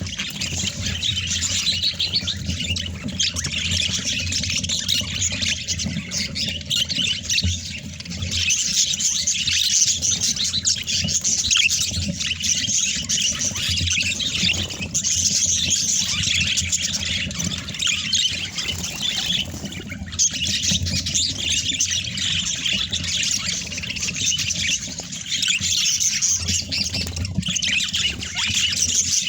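Budgerigars chattering and warbling together in a dense, continuous stream of high chirps and squawks, over a low steady hum.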